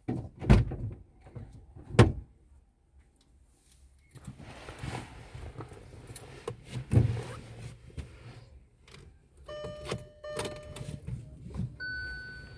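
Car doors thudding shut, two sharp knocks within the first two seconds, followed by shuffling movement noise and another thud. A steady electronic chime tone sounds near the end.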